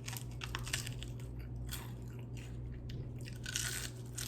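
Close-up crunching and chewing of crispy fried chicken feet, a run of irregular crackly bites.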